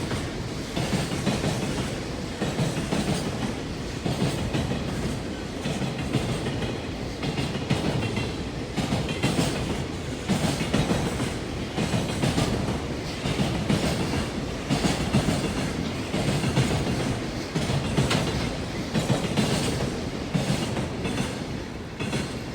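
A freight train hauled by an EF210 electric locomotive rolling past, its wheels clacking over rail joints in a steady repeating rhythm.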